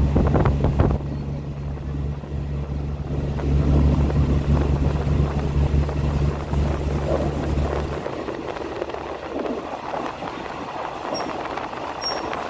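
Passenger train in motion, heard from inside a carriage: a steady running noise with a low, steady engine hum that cuts off about eight seconds in, leaving the rolling noise alone.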